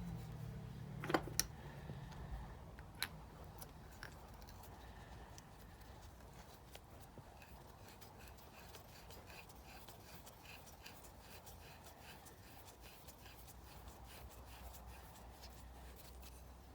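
Brake caliper parts and pads being handled: a few sharp metal clicks in the first three seconds, then faint rubbing and light ticking as the freshly greased pads are slid and checked for free movement.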